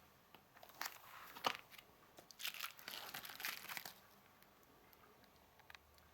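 Plastic packaging crinkling and rustling as it is handled, in a few clustered bursts that stop about two-thirds of the way through.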